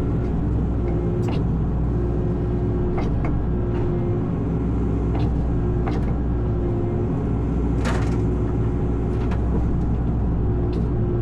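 Excavator's diesel engine running steadily, with scattered light clicks and knocks over it, one a little louder about eight seconds in.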